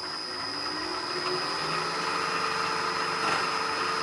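Milling machine running a 2-inch carbide-insert face mill: a steady machine whine with a constant high tone that slowly grows a little louder.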